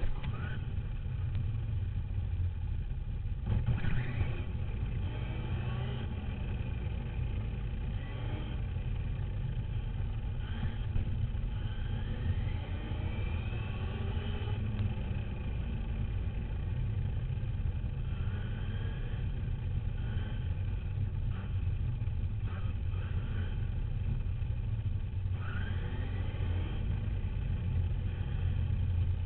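Duratrax RC dirt bike running, heard from a camera mounted on it: a constant low rumble, with the motor's pitch sweeping upward several times as the bike speeds up.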